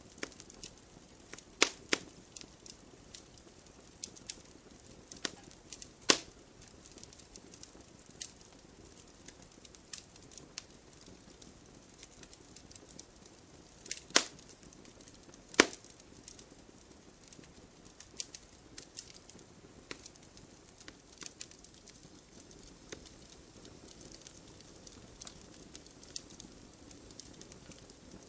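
Wood fire crackling in a fireplace: irregular sharp pops and snaps, the loudest a pair about two seconds in, one near six seconds and a pair around fourteen to sixteen seconds, over a soft steady hiss.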